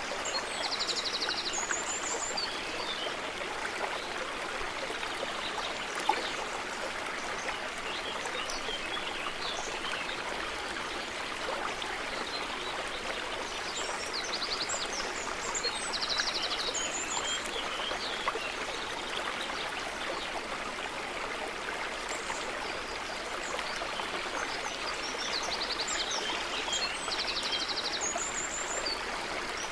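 Stream running steadily over stones, with a songbird's phrase of high chirps and quick trills coming in three times, about every thirteen seconds.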